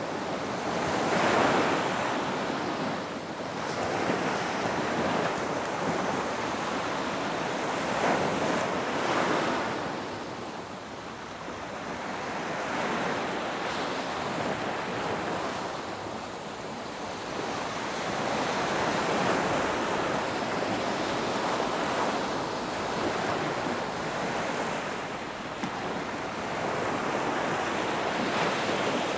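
Ocean surf on a beach: waves breaking and washing in and out, swelling louder and easing off every several seconds.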